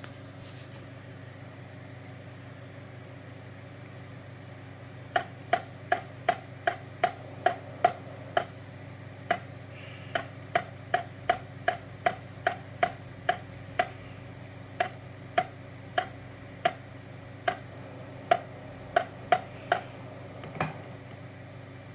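Tipping-bucket rain gauge's seesaw tipping over and over as water is poured in, a run of about thirty sharp clicks, roughly two a second, starting about five seconds in and stopping near the end, over a steady low hum. Each click is one tip the controller counts as rainfall.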